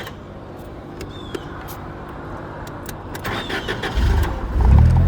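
An engine running at idle, then a louder, deeper rumble building up about four seconds in as it takes on throttle or load. A few faint short high squeaks sound over it.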